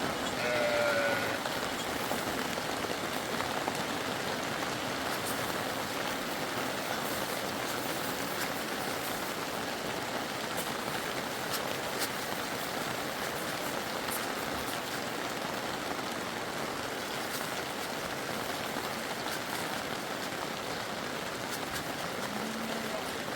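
Steady rain falling, a constant hiss with scattered faint drip ticks. In the first second a sheep's bleat trails off.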